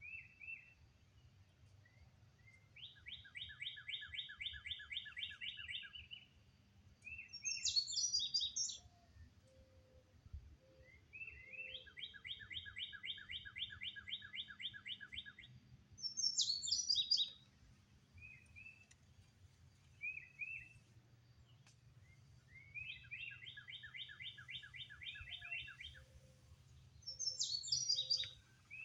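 Songbirds singing: a fast trill lasting about three seconds, followed by a short, high-pitched burst of notes, repeats three times about ten seconds apart, with short single chirps in between. The high bursts are the loudest sounds.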